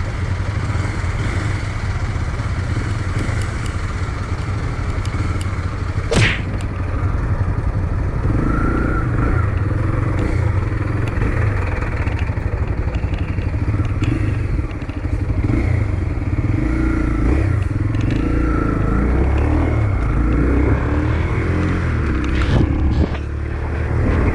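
Motorcycle engine running steadily under a continuous low rumble, with a sharp clack about six seconds in and a thud near the end.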